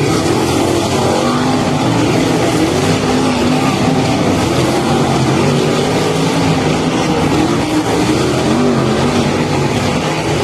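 Race car engines running hard at speed, several engine notes overlapping and wavering up and down in pitch under a steady wash of noise.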